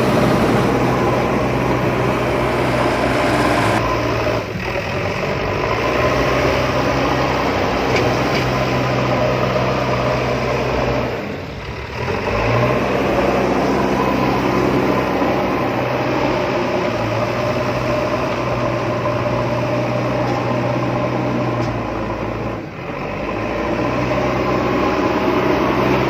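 A steady engine-like mechanical drone, dipping briefly three times.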